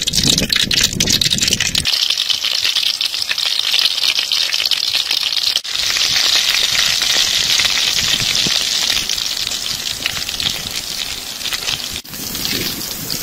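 Small fish frying in hot oil: a loud, steady sizzle and crackle, which dips for a moment twice.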